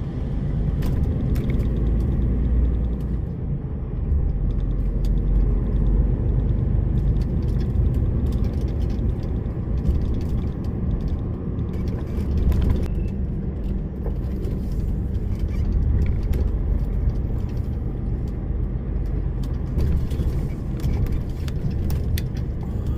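DAF lorry's diesel engine and road noise heard from inside the cab while driving, a steady deep rumble.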